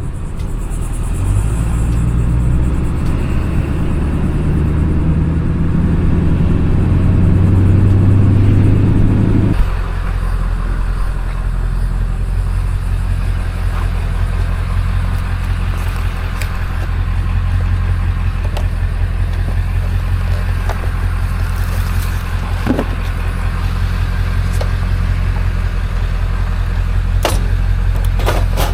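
A road vehicle's engine running under way with road noise. It pulls louder for about the first ten seconds, then drops suddenly to a lower, steady drone. A few light knocks or rattles come near the end.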